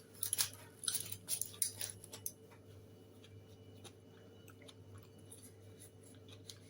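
Faint chewing with a run of small sharp clicks for the first two seconds or so, then only a few faint ticks over a steady low hum.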